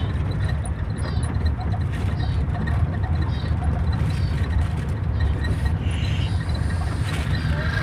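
Vehicle engine running with a steady low drone, heard from on board.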